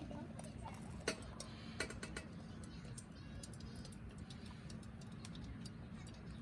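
Scattered light clicks and taps, the clearest about a second and two seconds in, over a low steady background rumble.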